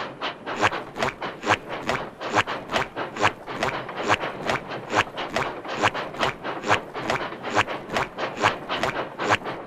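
A train running, with an even, fast rhythm of sharp clacks, about four a second.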